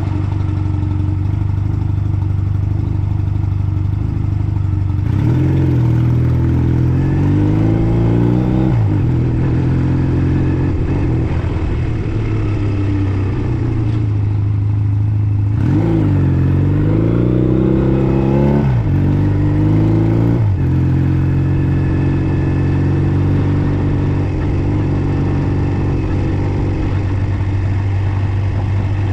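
Honda Nighthawk 250's air-cooled parallel-twin engine running on the move. Twice the revs climb for a few seconds and then drop back sharply, about five seconds in and again about sixteen seconds in, as the bike accelerates. In between it holds a steady note.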